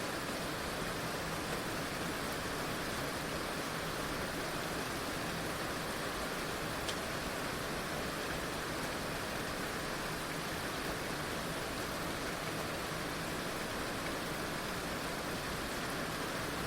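Heavy rain falling steadily, an even hiss of raindrops without pause, with one faint tick about seven seconds in.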